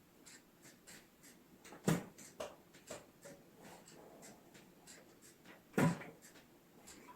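Axe blows splitting firewood: two heavy strikes about four seconds apart, with smaller knocks and clatter of wood between them.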